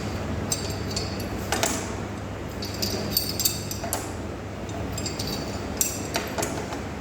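Small metal parts and tools clinking and tapping at irregular intervals, with a steady low hum underneath.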